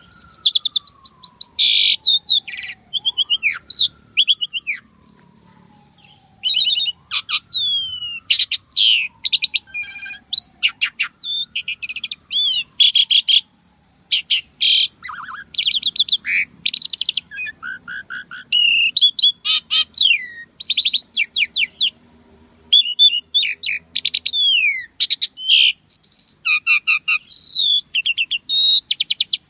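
Asian pied starling (jalak suren) singing vigorously, a fast, varied stream of chirps, trills, whistles and rapid note strings. Through the first half, a lower whistle that jumps up and slides slowly down repeats every few seconds beneath it.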